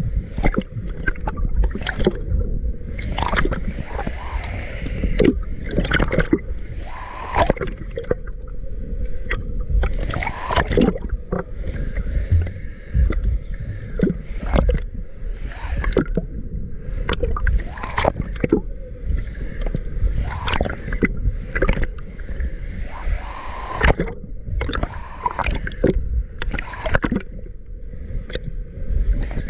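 Water gurgling and splashing close to the microphone, with many sharp knocks and rubbing noises and a steady low rumble.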